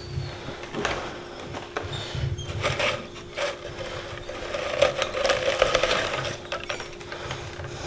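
Dry pine twigs of an old wren nest rustling and scraping as they are pulled out of a wooden nest box by hand, with irregular light knocks and clicks against the wood.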